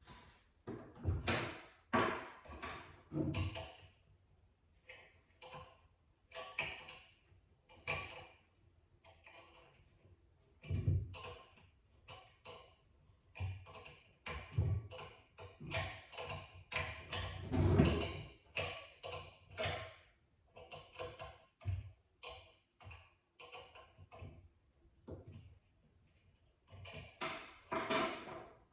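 Irregular knocks, clunks and clattering of metal and plastic parts being handled and worked into place by hand, in uneven clusters with short pauses between.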